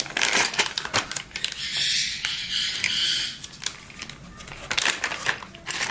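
Small plastic bags of sewing-machine presser feet being handled and opened: crinkly plastic rustling with a hissy stretch of a second or two near the middle, amid many sharp clicks and taps of the small hard accessories.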